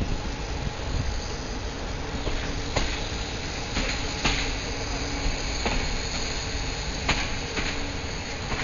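Passenger train running along the track, heard from inside the carriage: a steady rumble and hiss with a few sharp, irregular clicks and knocks from the wheels and carriage.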